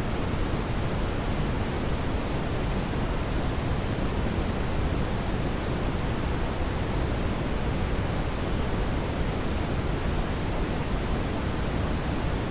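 Steady brown noise: an even, unchanging rumbling hiss, strongest in the low end.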